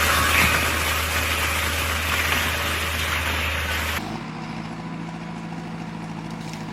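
Diesel engine of a forestry machine running, with loud mechanical noise over a steady low hum. About four seconds in it cuts abruptly to a quieter, steady engine hum.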